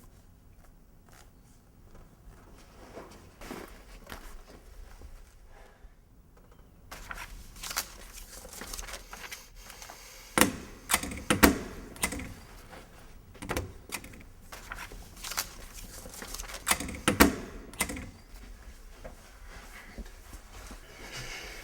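Scattered clicks, knocks and rustling of things being handled, faint for the first several seconds, then a handful of sharper knocks.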